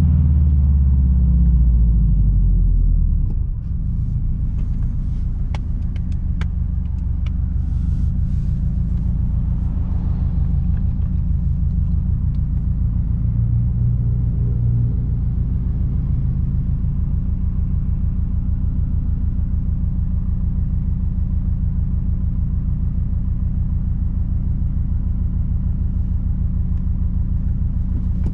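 Straight-piped 2006 Subaru WRX STI turbocharged flat-four running loud for the first few seconds, then dropping to a steady, even idle rumble for the rest. A few light clicks sound a few seconds after the drop.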